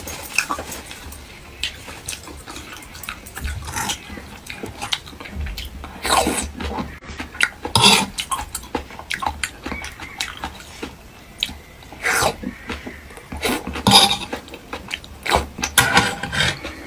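A person eating noisily, close to the microphone: chewing and wet mouth smacks at irregular intervals, loudest around the middle and near the end.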